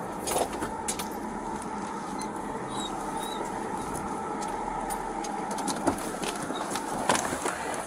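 Steady road and engine noise of a moving car, with scattered clicks and knocks.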